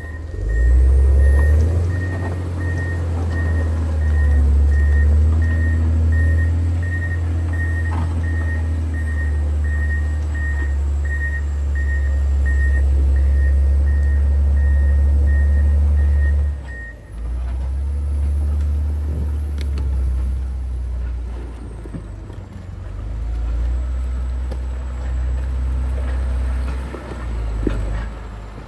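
John Deere 670 motor grader's diesel engine running under load with a deep steady rumble, its reverse alarm beeping about one and a half times a second while it backs up. The beeping stops after about 16 seconds and the engine carries on alone after a brief break in the sound.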